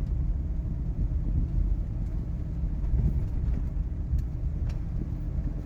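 Steady low rumble of a car's engine and tyres heard from inside the cabin, with a couple of faint ticks a little past the middle.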